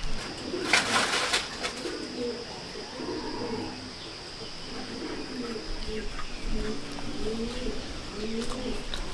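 Pigeons cooing over and over, low rounded calls that rise and fall, with a short rustling clatter about a second in.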